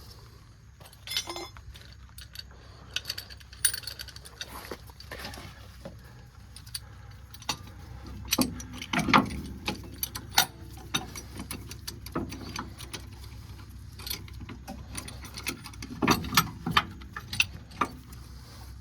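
Irregular metallic clicks and clinks of steel tools and brake parts being handled while a C-clamp is fitted over a truck's front brake caliper, with louder clusters of clatter about halfway through and near the end.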